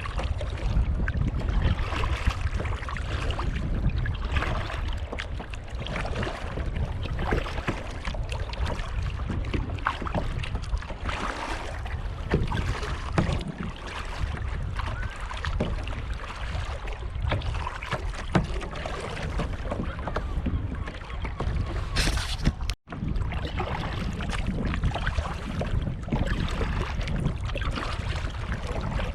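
Kayak paddle strokes and water splashing and lapping around the hull, with wind rumbling on the microphone. The sound drops out for an instant about three-quarters of the way through.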